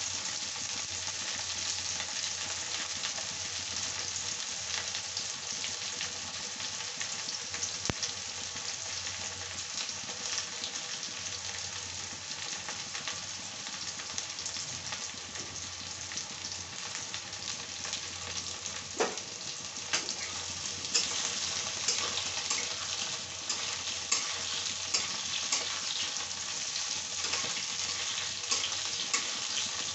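Pointed gourd (parwal) and potato pieces sizzling in hot oil in a kadai: a steady hiss with popping crackles. Near the end a metal spatula stirs them, and the crackling gets busier and louder.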